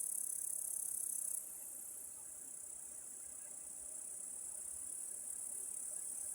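A chorus of insects chirring with a high, steady hiss, which drops abruptly in level about a second and a half in and then slowly builds back.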